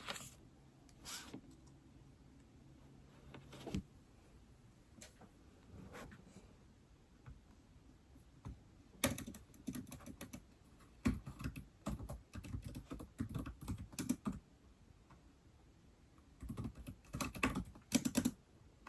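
Typing on a keyboard used with an iPad: a few scattered keystrokes at first, then a run of rapid key clicks lasting about five seconds, a short pause, and another quick burst of typing near the end.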